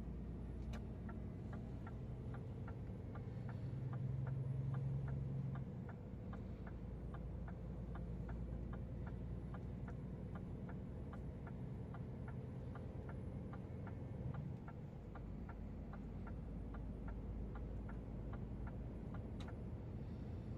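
Truck cab turn-signal indicator ticking steadily, about two and a half ticks a second, over the low hum of the running diesel engine; the ticking stops about three-quarters of the way through.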